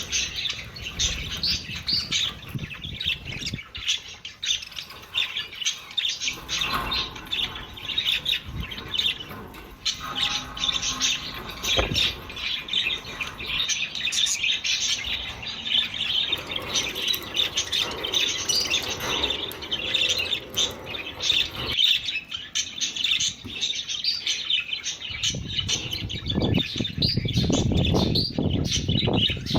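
Budgerigars chattering and warbling together in a dense stream of fast chirps and squawks. A lower rustling noise, such as wing flutter or cage movement, joins in the last few seconds.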